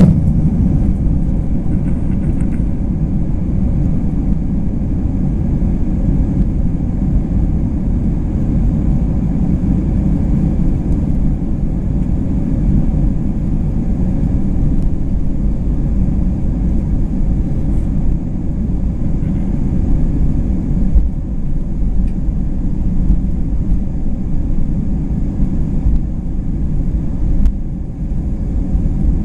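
Steady low rumble inside the cabin of an Airbus A320 jet airliner: engine and airframe noise, even throughout, with faint steady tones above it.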